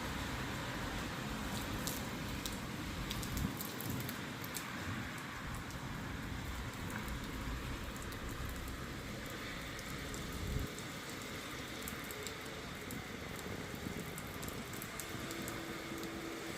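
Steady rain falling, an even hiss with scattered sharp ticks of drops striking nearby surfaces. A low rumble runs underneath and stops abruptly about ten seconds in.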